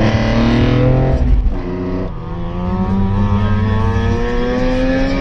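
BMW E46 M3's S54 straight-six, fitted with individual throttle bodies and velocity stacks, accelerating hard: the revs climb for about a second and a half, fall away at a gear change, then climb steadily again through the next gear.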